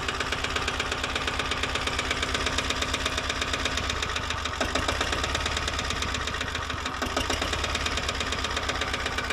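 Lombardini 3LD 510 single-cylinder diesel engine of a 622 hay mower running steadily, with a rapid, even diesel knock.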